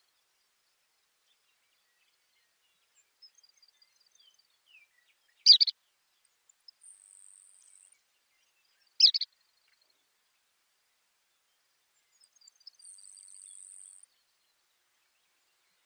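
Baird's sparrow singing: a few thin high notes leading into a short high trill, heard twice. Two loud sharp calls break in about five and nine seconds in.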